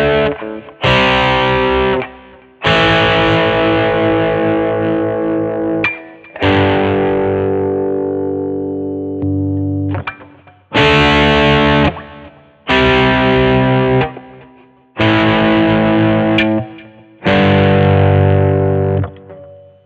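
1982 Vantage VE-550 electric guitar played with a distorted tone, strumming a series of chords. Each chord rings for one to two seconds and is then cut off sharply. One chord midway is left to die away for several seconds.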